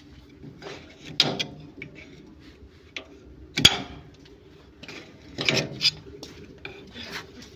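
Irregular knocks and clatter of tools and parts being handled, with three louder sharp clanks: about a second in, near the middle, and again past five seconds.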